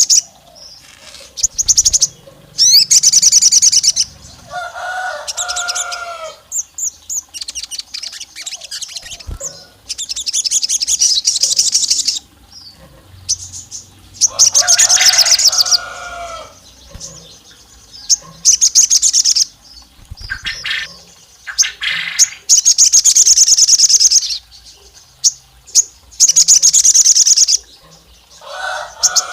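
A sogon singing in repeated bursts of rapid, high trilled chirps, each lasting one to two seconds, a few with lower, fuller notes under the trill. It is a lure song said to sound like a female calling a male.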